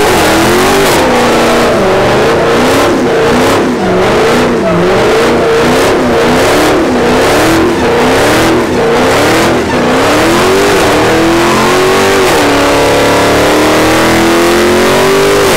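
Dodge Charger Hellcat's supercharged V8 revving hard during a tyre-smoking burnout, its pitch rising and falling every second or so as the throttle is worked. For the last few seconds it is held high and steady, with the spinning rear tyres screeching throughout.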